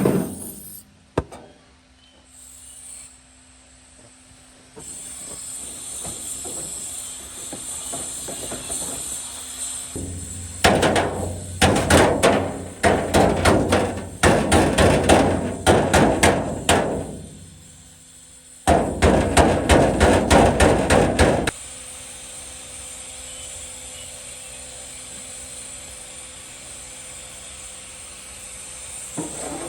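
Hammer blows on sheet metal in quick runs: a stretch of rapid strikes, then a denser, near-continuous run of about three seconds, with quieter steady noise either side.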